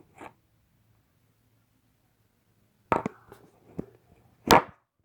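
Short knocks and clunks from handling a window air conditioner unit. A near-quiet stretch gives way to a few knocks about three seconds in, then a louder knock about four and a half seconds in.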